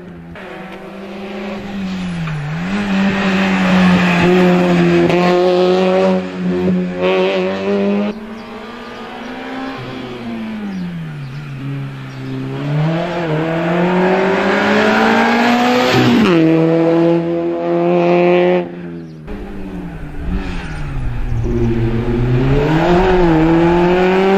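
Citroën Saxo rally car's engine revving hard as it weaves through cone chicanes. The pitch drops sharply each time it lifts off and brakes for a gate, then climbs again as it accelerates, about seven or eight times. It cuts off abruptly near the end and picks up again straight after.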